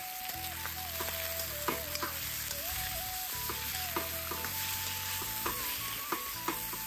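Chicken pieces sizzling in hot oil in a metal wok over a wood fire, with a metal spoon stirring and scraping against the pan in a string of irregular clicks.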